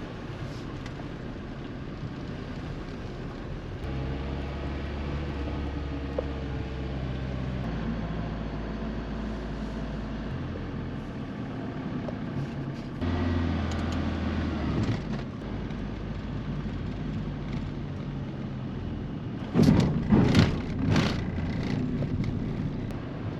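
Motor vehicle engines running at low revs, a steady low hum that shifts in pitch and level a few times. A short cluster of louder knocks and rushes comes about twenty seconds in.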